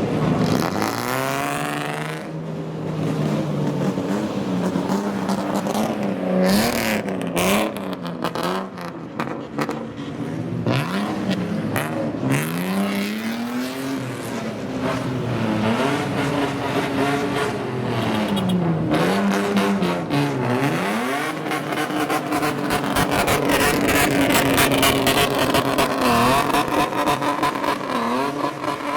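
Car engine being revved, its pitch swinging up and down again and again, then held high near the end.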